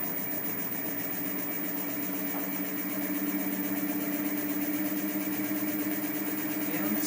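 Brushless DC motor rig running steadily, the motor spun as a generator: an even electric hum with two held tones and a high hiss above them.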